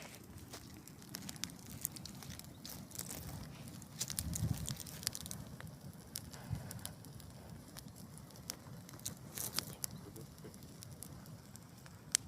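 Wood campfire crackling, with irregular sharp pops and snaps, bunched a few times, over a faint hiss. A few soft low thumps come in among them.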